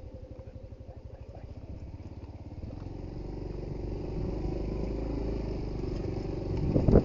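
Suzuki GD110HU's small single-cylinder four-stroke engine running under way, its firing pulses steady and getting louder from about halfway through. A few loud knocks come near the end.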